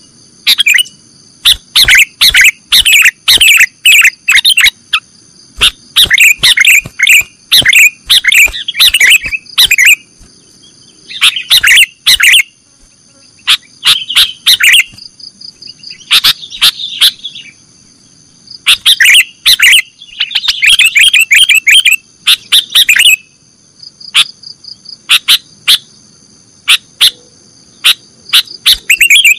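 Sooty-headed bulbul (kutilang) singing: loud clusters of rapid, sharp chirps, repeated in bursts of a second or two with short pauses between. A steady high whine runs underneath.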